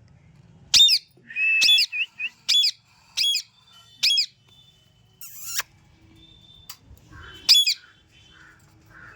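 Pet parrot squawking: a series of about six sharp, loud screeches that each dip and rise in pitch, most packed into the first four seconds with one more near the end, mixed with a few softer chirps.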